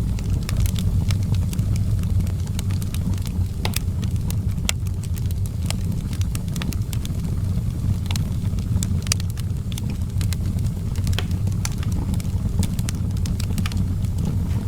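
Outdoor fireplace fire burning: a steady low-pitched noise from the flames with frequent sharp crackles and pops scattered throughout.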